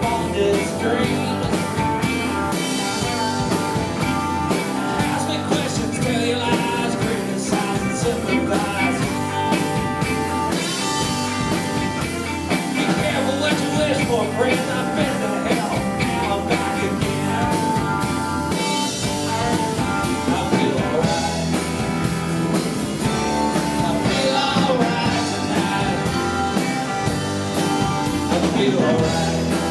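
Rock band playing live, with a steady drum beat under bluesy rock-and-roll.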